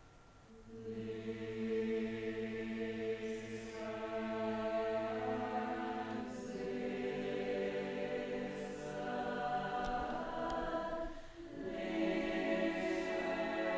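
Choir singing long held chords, the harmony swelling in about a second in and shifting to new chords several times.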